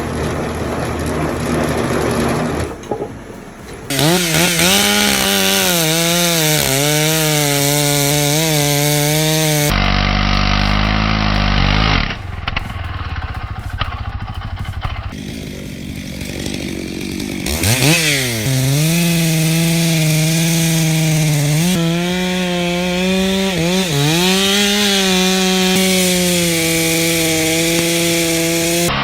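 Chainsaw running at high revs and cutting, its engine note dipping and recovering repeatedly as it bogs under load. The sound changes abruptly several times, with a brief deep machine hum in between.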